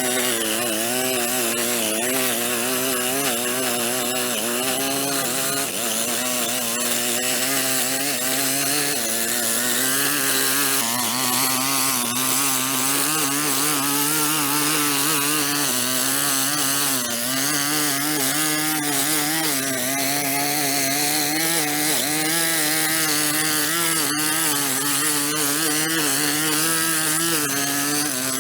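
Small gas engine of a handheld power tool running continuously, its pitch wavering up and down as the load on it changes.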